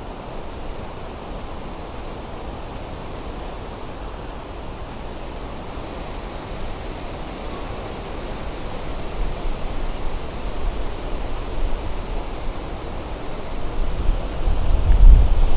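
Gusty wind rushing steadily, with low rumbling buffets on the microphone that grow stronger in the last few seconds.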